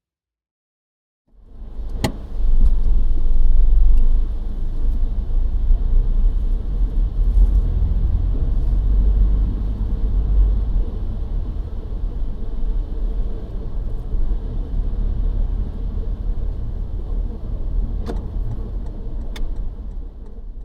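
A car driving, with steady low road and engine rumble. It starts suddenly after about a second of silence, with a sharp click as it begins, and eases off near the end.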